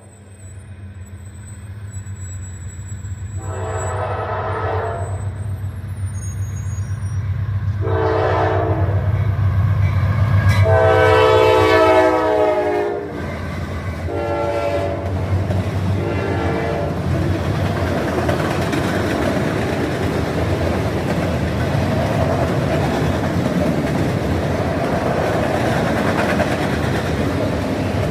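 Norfolk Southern diesel freight train approaching and passing: the locomotive's engine drone builds while its air horn sounds a series of blasts, the longest and loudest about halfway through. After that the cars roll by with a steady rumble and clatter of wheels on rail.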